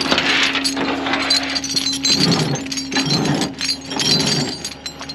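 Metal clinking and clanking of tow truck hook-up gear being handled and set against the car, with a steady hum underneath for the first few seconds.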